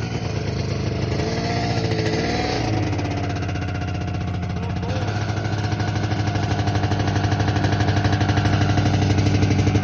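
Yamaha VMAX 600 two-stroke snowmobile engine running after a cold start, warming up at idle: its note wavers in the first few seconds, then settles into a steady pulsing idle that slowly grows louder. It has sat unused for a long time and sounds like it needs lots of work.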